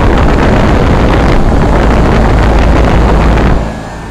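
Loud rush and low rumble of the condenser fans on a 1986 Trane 20-ton commercial air-conditioner running, the discharge air buffeting the microphone. The noise drops off sharply about three and a half seconds in.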